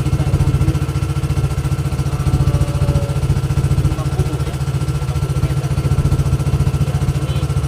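Boat engine running steadily at low revs, a rapid, even low throb.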